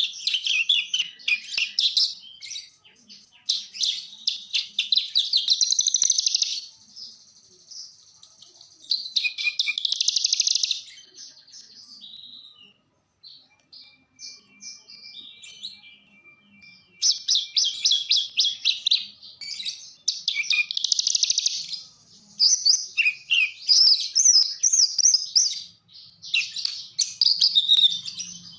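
Branjangan (Horsfield's bush lark) in full song: loud, rapid, chattering phrases a few seconds long, broken by short pauses. The song goes quieter for a few seconds in the middle, with only scattered notes and a thin held whistle, before the fast phrases resume.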